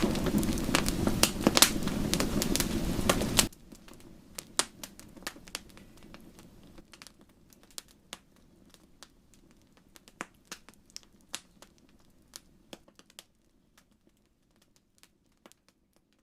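Crackling wood fire: dense crackles and pops over a low rumble that drop off sharply about three and a half seconds in. Sparse faint crackles follow and thin out to silence.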